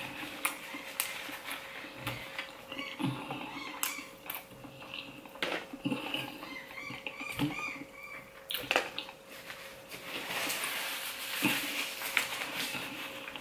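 Close-miked chewing of a large mussel: wet mouth clicks, smacking and squelching at an uneven pace, with a fork briefly picking at the foil tray of food partway through.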